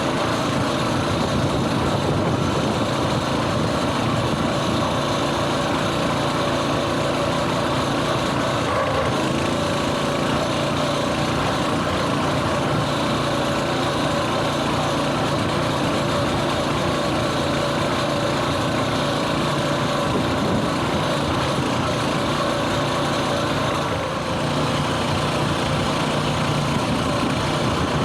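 Coleman mini bike's small single-cylinder four-stroke engine running steadily under way. The engine note shifts and dips briefly about 24 seconds in.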